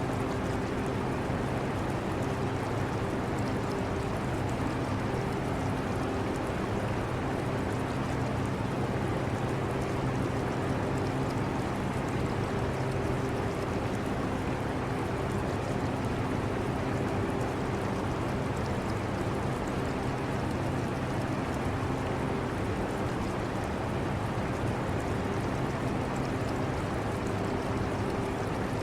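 An air conditioner running with a steady low hum and hiss, mixed with the trickle of aquarium water.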